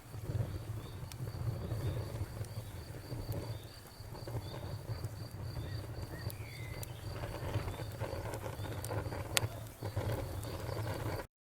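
Wood fire burning with a steady low rumble and scattered crackles and pops, one sharper pop about nine seconds in. A high chirp repeats evenly about three times a second throughout. The sound cuts off abruptly just before the end.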